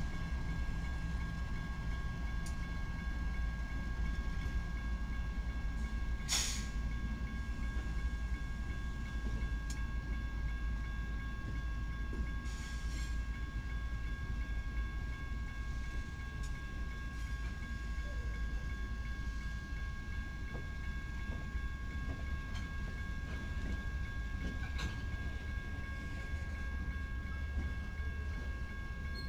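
A freight train headed by a string of several diesel-electric locomotives passing close by: a steady low rumble of engines and wheels on rail, with a steady high whine over it.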